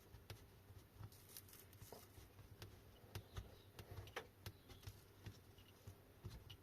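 Near silence with faint, scattered clicks and light taps of a socket and small metal parts being handled.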